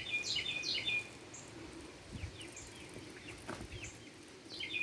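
A songbird singing a quick phrase of short, high chirping notes, once at the start and again near the end, with fainter calls in between.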